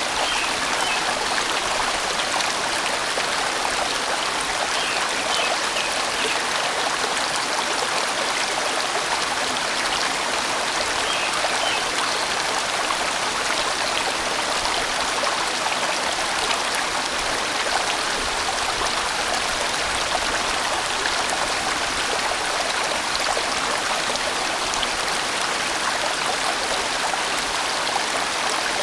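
Steady rushing of a large mountain stream flowing over rocks, an even, unbroken water sound.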